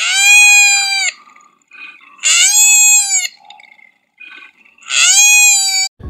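Koala distress calls: three loud, high-pitched screams, each about a second long, with short gaps between them.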